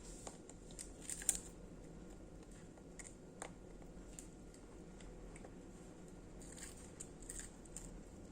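Dogs crunching and chewing crispy kerupuk kemplang fish crackers: irregular faint crunches and clicks, the sharpest about a second in, with another cluster near the end.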